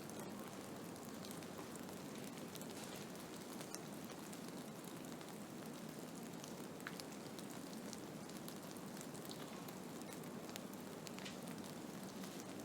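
Blizzard ambience: a steady rush of wind-driven snow, with many small ticks scattered through it.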